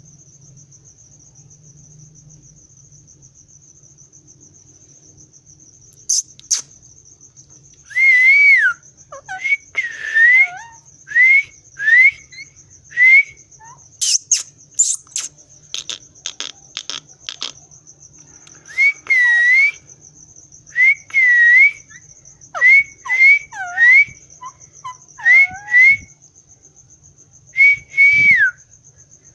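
Pet parrot whistling: a series of short rising-and-falling whistles that begin about eight seconds in and come in irregular runs, with a few sharp clicks among them. A steady high-pitched whine sits underneath throughout.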